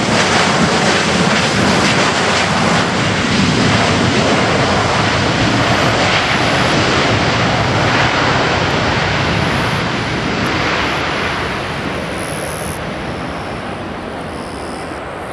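Boeing 737-800's CFM56-7B jet engines running loud at high power. After about ten seconds the noise slowly fades as the aircraft moves away.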